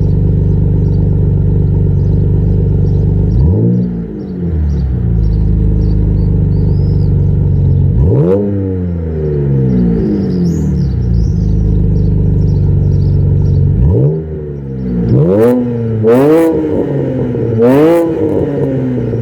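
BMW 130i's 3.0-litre inline-six with a custom exhaust, idling steadily and revved in free-rev blips. Three single blips come several seconds apart, then three quicker blips close together near the end.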